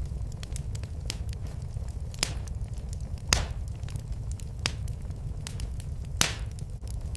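Wood fire in a fireplace crackling: many small irregular clicks and pops, with four louder snaps spread through, over a steady low rumble.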